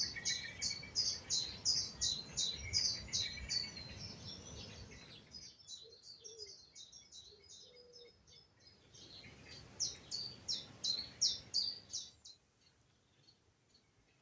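A songbird singing a long run of short, high, repeated notes, about three a second; loud at first, softer in the middle, loud again near ten seconds, stopping about twelve seconds in. A low rumble runs under the first few seconds.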